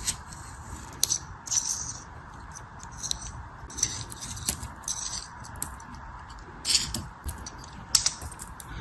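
Packaging being handled and opened by hand: irregular crinkling rustles and sharp little clicks.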